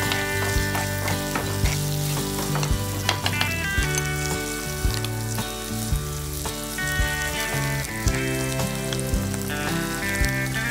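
Onions sautéing in oil in a clay pot, a steady sizzle, under background instrumental music with a beat about once a second.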